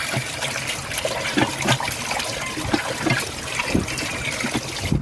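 Water pouring and splashing, with small irregular splashes and knocks throughout; it starts and stops abruptly.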